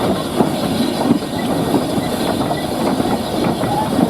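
A train moving on the track: a loud, steady clattering noise with many small irregular clicks.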